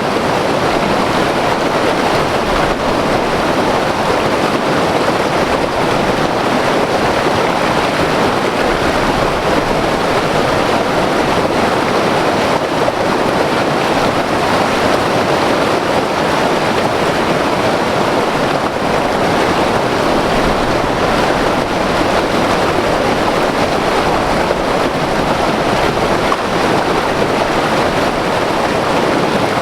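White water river rushing over rapids in a steady, unbroken roar of water.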